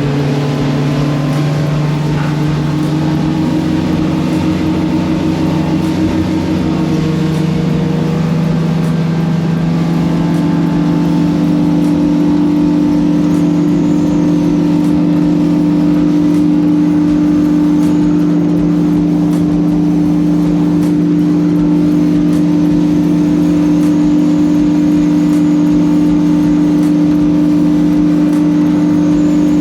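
Motorboat engine running steadily under way; its pitch rises a little about eight to ten seconds in, then holds.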